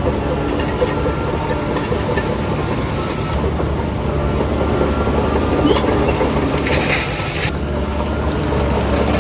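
Heavy diesel engine of earthmoving machinery running steadily under load, with a brief hiss about seven seconds in.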